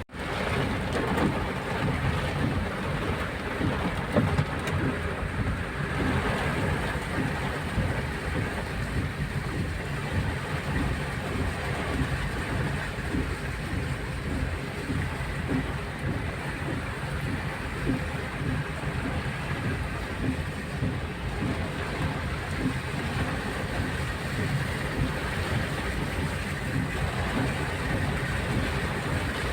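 Steady rushing noise of a wind-and-rain storm.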